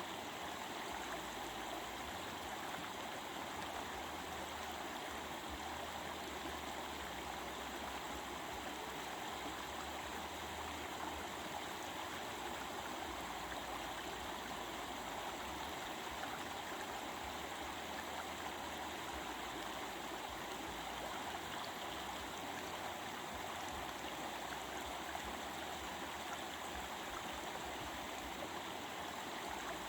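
A stream running steadily over rocks, an even rushing and babbling of water.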